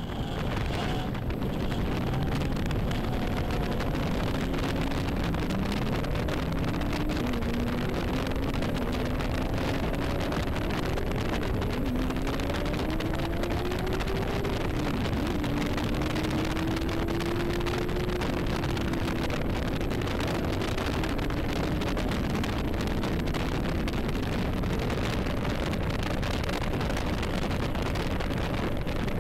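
1986 AC Cobra MK IV's V8 engine pulling hard through the gears, its note rising and then dropping at each shift, with wind rushing over the open cockpit. The engine comes up to full volume about a second in.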